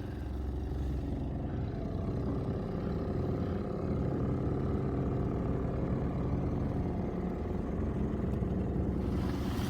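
An engine running steadily: a continuous low drone that holds an even pitch and grows slightly louder.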